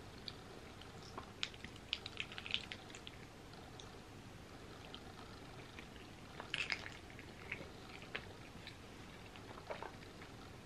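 Faint mouth sounds of chewing soft macaroni and cheese: scattered small wet smacks and clicks. About six and a half seconds in, a brief cluster of sounds as a metal spoon scoops more macaroni from the bowl.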